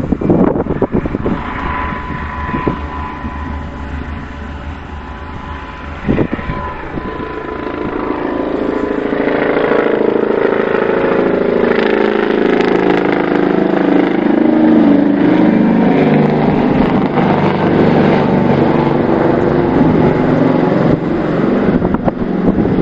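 A vehicle running and moving, with wind noise on the microphone. There are a few knocks early on, and from about a third of the way in the sound grows louder and wavers in pitch.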